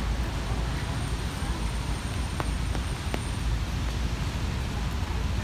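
Heavy rain on a city street: a steady hiss of falling rain under a low rumble of road traffic.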